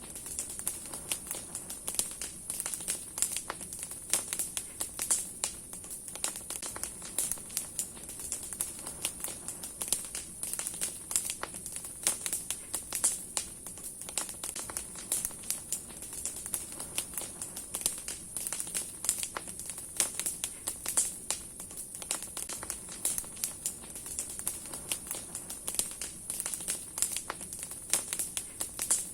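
Large bonfire of firewood and branches burning and crackling, with frequent sharp, irregular pops over a steady high hiss.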